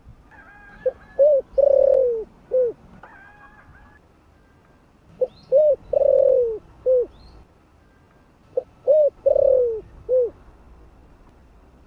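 Spotted dove cooing its territorial call, three phrases about four seconds apart. Each phrase is a brief note, a short coo, a long drawn-out coo falling in pitch, and a short closing coo.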